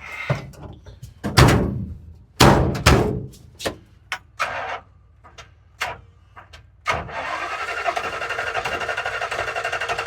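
A few knocks and thumps, then about seven seconds in a car engine starts and runs with a fast, even pulse.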